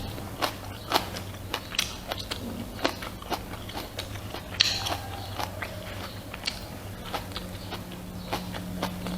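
Close-miked chewing and mouth smacking while eating rice and pork soup: a string of irregular wet clicks, with one louder noisy burst about halfway through, over a steady low hum.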